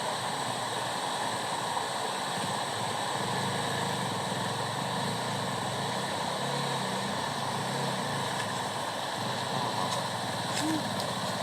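Steady rush of river water, with a motorcycle engine running low underneath through the middle of the stretch.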